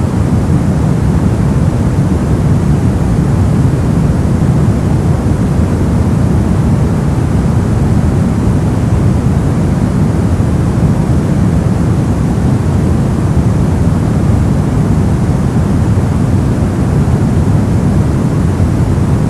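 Brown noise: a steady, deep rushing hiss, strongest in the bass and thinning toward the highs, with no changes or events.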